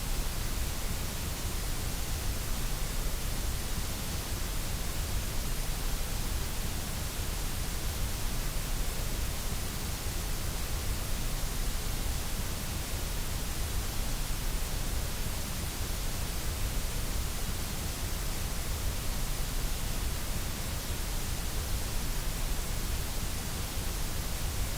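Steady white noise: an even, unbroken hiss spread across the whole range, with no change in level.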